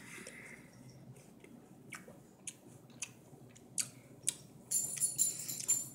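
A mouthful of raw pear being chewed with the mouth closed: scattered wet, crunchy clicks that come faster in the last second or so.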